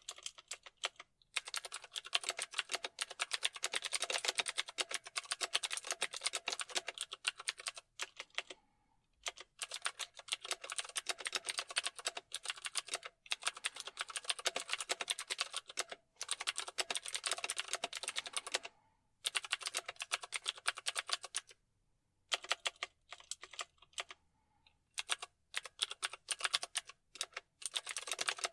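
Computer keyboard typing: fast runs of keystrokes lasting a few seconds at a time, broken by short pauses, with sparser, scattered key presses in the last few seconds.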